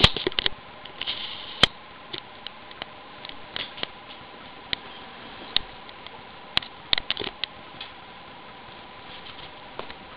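A kitten playing with a laundry hamper: irregular light taps, scratches and rustles, with a few sharper knocks at the very start, just under two seconds in, and about two-thirds of the way through.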